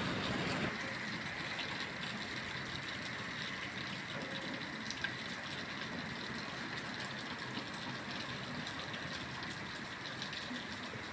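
Heavy rain pouring down steadily in strong wind, an even hiss of many drops.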